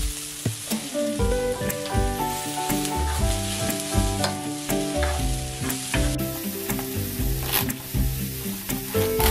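Sliced onions and mushrooms sizzling in a frying pan as a spatula stirs them, with repeated sharp clicks of the utensil against the pan. Soft background music with a melody plays along.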